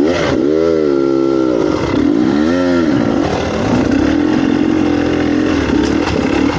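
Dirt bike engine revving up and back down twice in quick succession, then running steadily.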